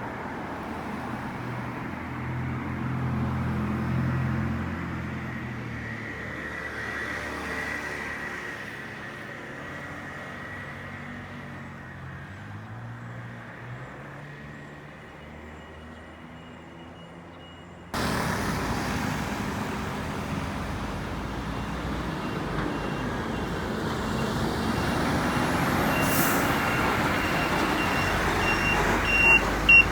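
Road traffic noise: a heavy vehicle's engine rising and then falling away as it passes. An abrupt cut follows, after which the traffic rush is louder and steady, with a sharp click just before the end.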